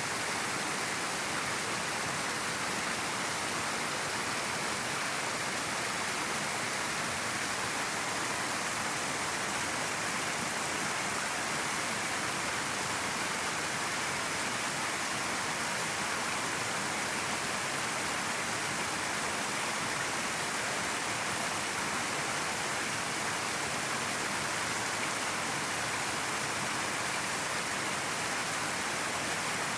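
River water flowing steadily, an even rushing noise that holds constant.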